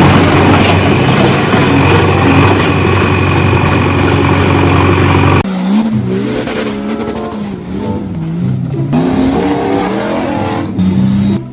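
Loud engine sound with a steady hum that cuts off sharply about five and a half seconds in. A quieter sound with a wavering pitch follows.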